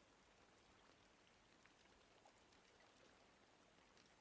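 Faint rain ambience: a steady hiss of rainfall with scattered soft drop ticks.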